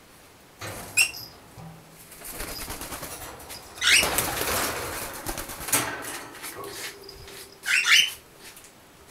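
Pet gray birds flapping their wings in a flurry as they fly from a chasing kitten, loudest about halfway through. A couple of short, high bird calls come about a second in and again near the end.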